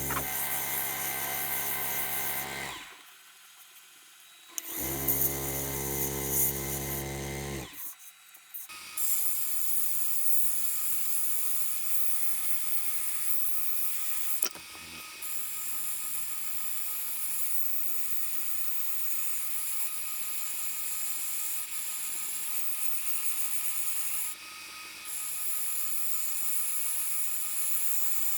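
Wood lathe spinning a poplar lampshade blank while it is sanded with 120-grit sandpaper: a steady machine hum with a high sanding hiss. The sound drops off briefly twice in the first eight seconds, and from about nine seconds in a steady high hiss takes over.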